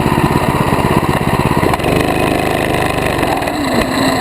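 Mini bike's small engine running close by, a fast, even putter of firing pulses, its note shifting for a while about halfway through.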